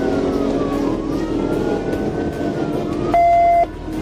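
Police siren wailing, its pitch rising and falling in slow sweeps about every two seconds, over a steady lower drone. A loud, steady beep lasting about half a second cuts in about three seconds in.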